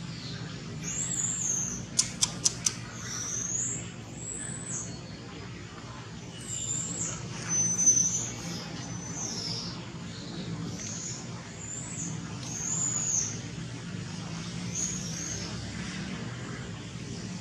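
Birds calling: short, high, arched notes repeated every second or so over a steady low hum. About two seconds in there are four quick sharp clicks.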